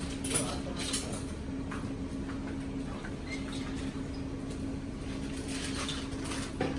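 Steady drone and rumble of a vehicle under way, with a constant low hum and scattered light clicks and rattles.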